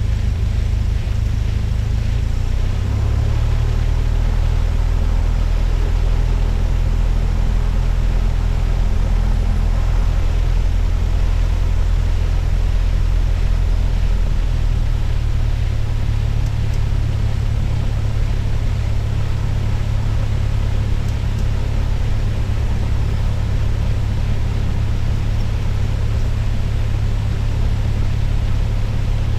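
Cessna 172's four-cylinder piston engine running steadily in the cabin during the pre-takeoff run-up, its pitch changing about three seconds in and again about sixteen seconds in.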